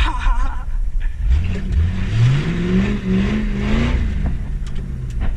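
Ford Mustang GT's 4.6-litre two-valve V8 with a muffler delete, revving up: the engine note climbs from about a second in, holds high for a moment, then drops off near the end.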